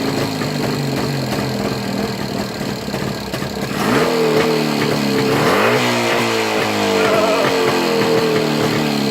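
Jawa 350 motorcycle engine running on its first start after ten months laid up. It is revved about four seconds in, dips and picks up again near six seconds, then runs on steadily.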